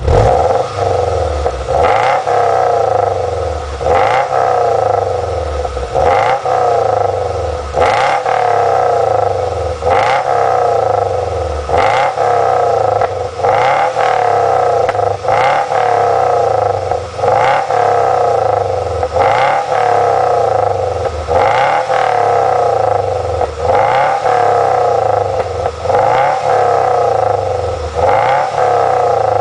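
Subaru Outback engine heard through an Ulter aftermarket exhaust, revved in short blips about every two seconds, the revs dropping back toward idle between blips.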